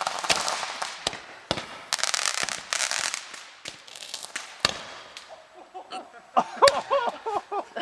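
Handheld roman candles firing: a fizzing hiss broken by sharp pops as balls launch, dense for the first three seconds or so, then a single crack about halfway. Voices shout near the end.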